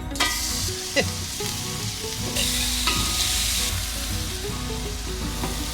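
Bacon sizzling in a frying pan, a steady hiss that grows louder for about a second midway, with a few light taps.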